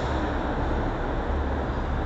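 MTA subway work train running through a station without stopping: a steady rumble of wheels on rail with a hiss.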